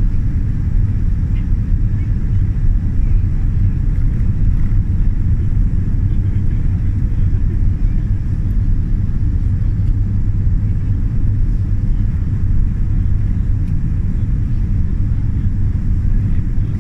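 Steady low rumble in the cabin of a Boeing 787 Dreamliner: engine and airflow noise of the airliner.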